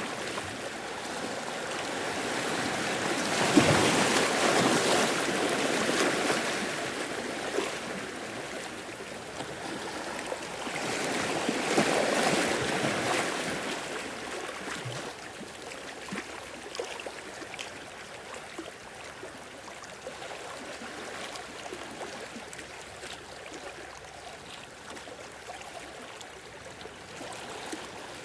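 Ocean waves washing in, with two louder surges that swell and ebb in the first half, then a softer, steady wash of water.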